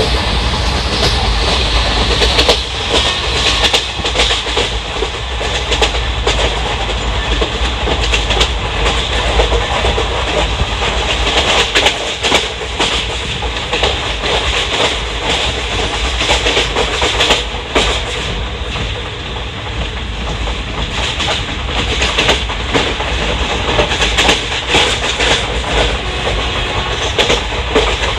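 Indian Railways ICF passenger coach running at speed: steady rumble and rush of wheels on rail, with frequent irregular clicks and knocks as the wheels pass over rail joints.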